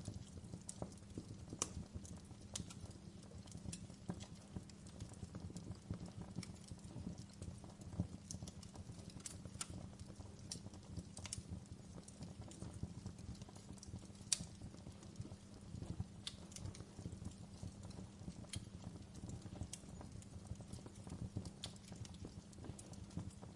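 Wood fire crackling in a fireplace: irregular sharp pops and snaps, several a second at times, over a low steady rumble of burning.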